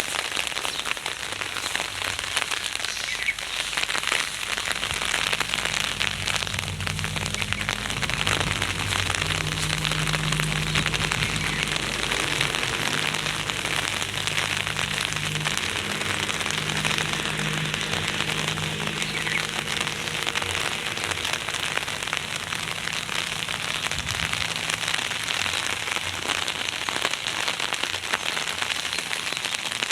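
Heavy rain pouring down, a dense, steady crackling patter of drops on a hard surface. A low steady hum runs underneath for about the first two-thirds.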